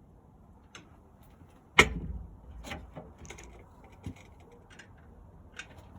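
Scattered clicks and knocks of hand tools against metal parts, with one sharp loud clack about two seconds in.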